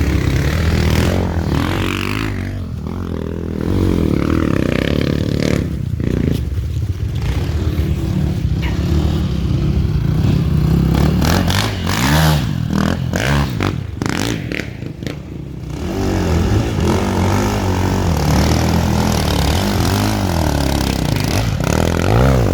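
Enduro motorcycle engine revving up and down again and again as the bike is ridden off-road, easing off briefly a couple of times.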